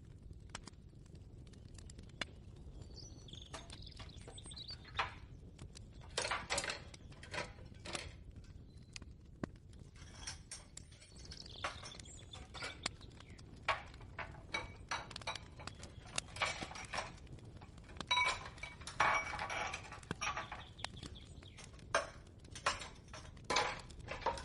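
Kitchen ambience: irregular knocks and clinks of dishes and utensils being handled, in scattered clusters, over a low steady hum. A busier run of ringing clinks comes about eighteen seconds in.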